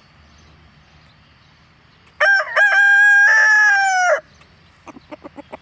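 A rooster crowing once, about two seconds long: a short opening note, then a long held note that drops off at the end. A few short clucks follow near the end.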